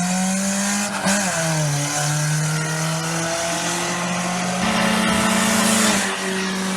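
A car engine running at steady revs, with a brief dip in pitch about a second in. It picks up near the end, then drops back.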